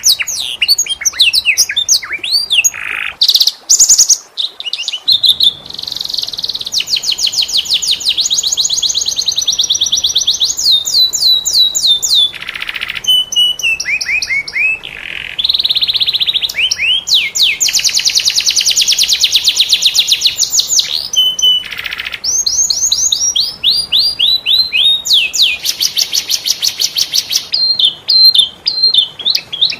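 Canary singing a long, varied song: rapid trills of quickly repeated notes alternating with series of falling and rising whistled notes, broken by brief pauses.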